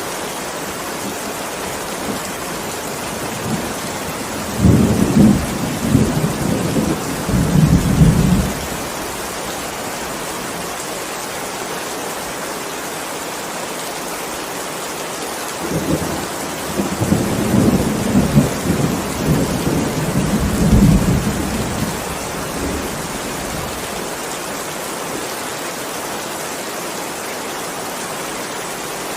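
Steady heavy rain with two rolls of thunder: the first starts about four seconds in and lasts about four seconds, the second starts about sixteen seconds in and rumbles on for about six seconds.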